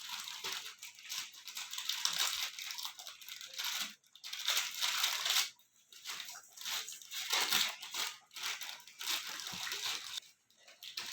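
Parrots fighting: harsh, noisy squabbling sounds in irregular bursts, broken by short pauses.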